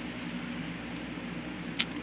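Steady low hum of background room noise, with one sharp click near the end as the plastic Lego Technic model is handled.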